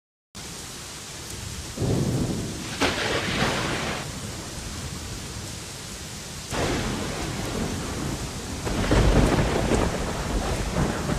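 Rainstorm: a steady hiss of rain, with three loud, low rumbles swelling up about 2, 6.5 and 9 seconds in.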